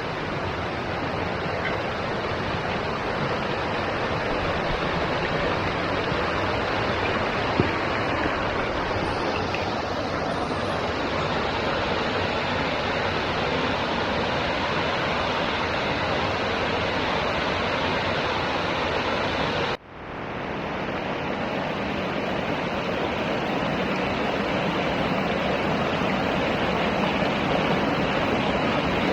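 Steady rush of falling water from a waterfall and its creek, with a sudden brief dropout about two-thirds of the way through.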